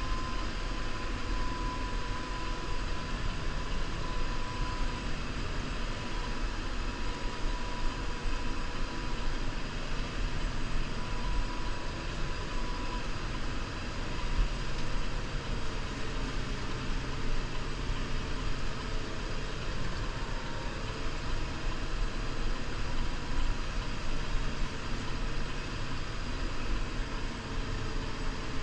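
New Holland Powerstar 75 tractor's four-cylinder diesel engine running steadily, with a faint thin whine over the rumble.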